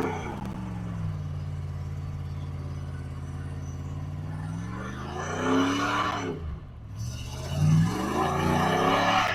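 1996 GMC K1500's 5.0-litre Vortec V8 through a custom exhaust, running low and steady for several seconds, then revved up about five seconds in and again near the end.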